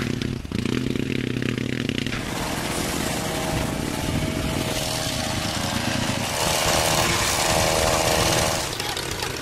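Engine and exhaust running steadily with a rough, buzzing note, louder for a couple of seconds in the second half before easing back.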